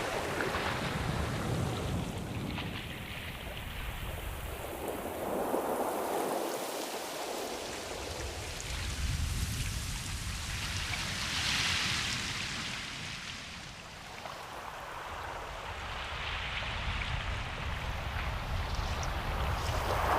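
Ocean waves washing in and drawing back in a continuous hiss, swelling and fading in surges a few seconds apart.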